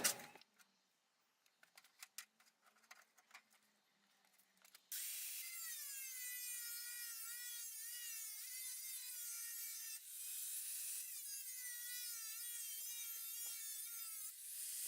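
A power tool whining with a wavering pitch, starting suddenly about five seconds in after a few faint clicks, and dipping briefly midway before running on.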